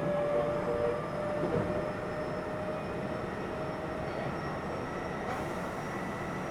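Keio 7000 series electric commuter train running, heard from inside the car: a steady rumble of wheels on rail with thin motor or gear tones, one high tone rising slowly.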